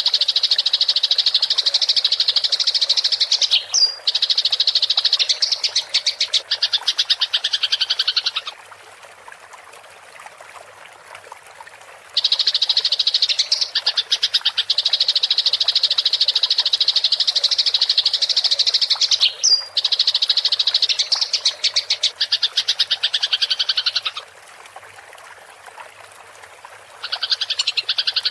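Eurasian tree sparrows giving a dense, rapid, high-pitched fighting chatter in long unbroken runs, each cut by a quieter pause of a few seconds, twice.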